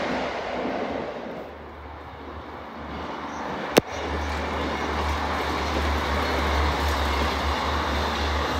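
Train running through a rail yard some distance off, a steady even noise that fades briefly and then builds again, under a low rumble. A single sharp click, the loudest moment, sounds about four seconds in.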